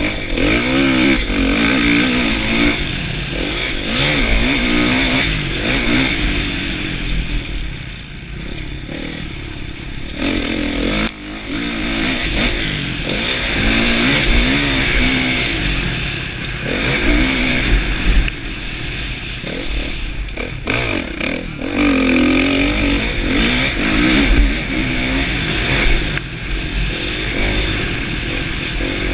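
Kawasaki KX450F 2016 motocross bike's single-cylinder four-stroke engine revving hard and backing off again and again as it is ridden around the track, its pitch repeatedly climbing and falling.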